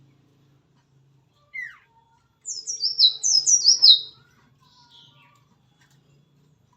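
A bird calling: one short falling note, then a quick run of about eight high, falling notes a second later.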